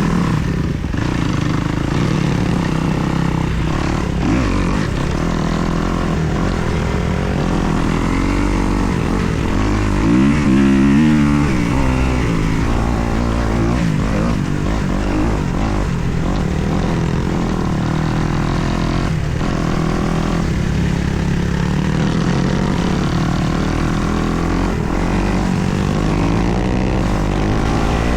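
2024 Kawasaki KX250 four-stroke single-cylinder dirt bike engine running while being ridden, its revs rising and falling, with the loudest rev up and back down about ten seconds in.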